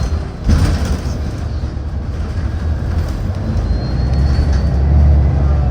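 City bus in motion, heard from inside the cabin: a steady low rumble of engine and road. Two brief knocks or rattles come in the first second.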